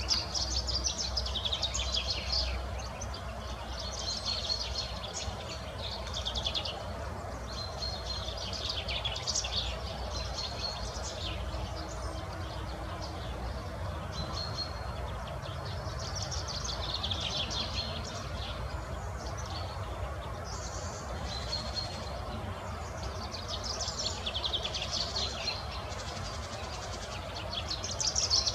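Songbirds singing short, high-pitched phrases that repeat every couple of seconds, over a steady low outdoor background noise.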